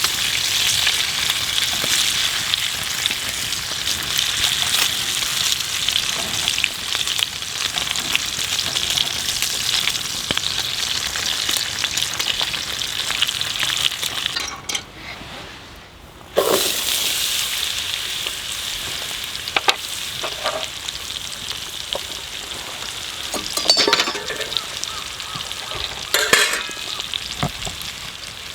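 Food sizzling and frying in a hot pan, a steady hiss that drops away for a couple of seconds about halfway through and then resumes, with a few clinks and knocks of utensils near the end.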